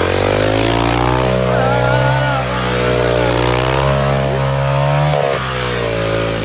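Motocross bike engine running hard at high revs, its pitch climbing at the start and then holding with slight wavering, with a brief drop about five seconds in.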